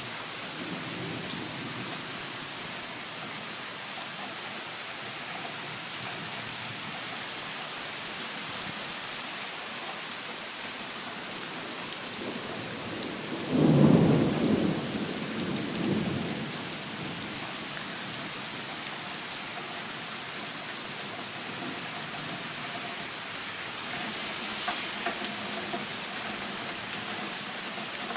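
Steady heavy rain falling, with a rumble of thunder about halfway through that swells quickly and fades over two or three seconds.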